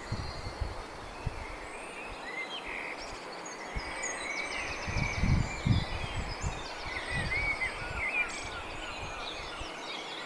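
Small birds chirping and singing: short whistled notes and quick trills, over and over. Low rumbles come and go, strongest about five seconds in.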